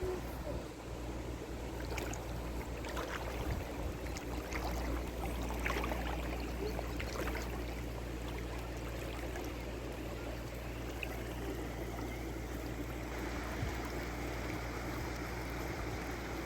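Steady flowing water, with a few light clicks and knocks in the first half.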